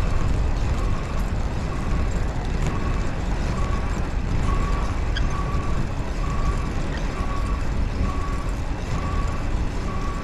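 Wind and rolling noise while riding a Sdoro Trekking 5.0 e-bike, with a short squeak repeating evenly about three times every two seconds, in step with the pedalling. The rider traces the noise to the bottom bracket, which needs oiling.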